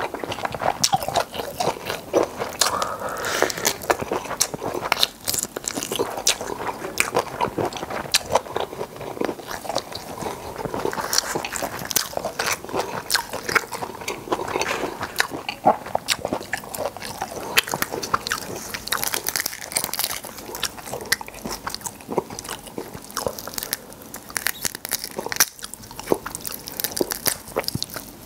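Close-miked chewing and biting of food: many crisp, irregular crunches and wet mouth clicks.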